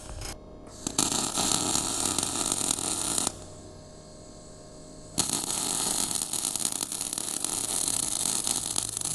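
Electric arc welding of steel: a crackling, sizzling hiss that starts and stops abruptly. One weld runs about two seconds, then a pause of about two seconds, then another starts and carries on.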